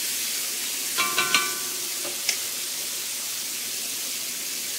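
Pork sizzling and frying in hot peanut oil in a cast iron wok, with a steady hiss. About a second in come three quick clinks with a brief ringing tone, then a single lighter click.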